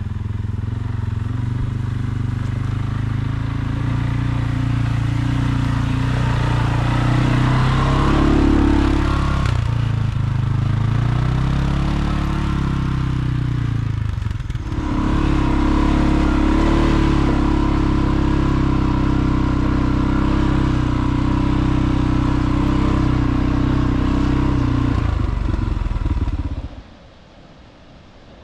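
A motor vehicle's engine running under way, its pitch rising and falling, with a brief dip about 14 seconds in. It stops abruptly near the end, leaving a fainter hiss.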